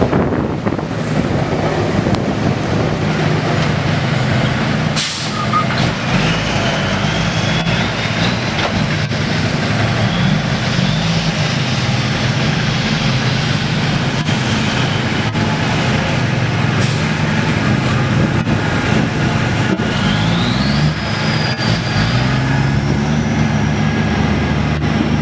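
A large vehicle's engine running, its pitch shifting up and down, with a thin whine that rises twice.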